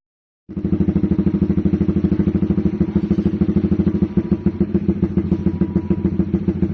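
Honda CBR150R's single-cylinder engine idling through an aftermarket R9 GP stainless-steel racing exhaust: a steady run of rapid, even exhaust pulses, starting about half a second in.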